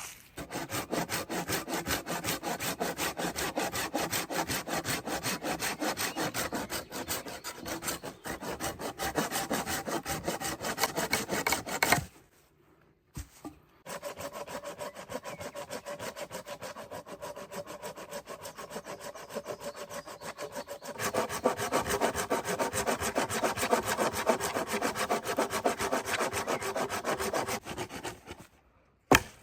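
Hand saw cutting through wood with quick, even back-and-forth strokes. It stops for a moment about twelve seconds in, resumes, and gets louder about twenty-one seconds in before stopping near the end.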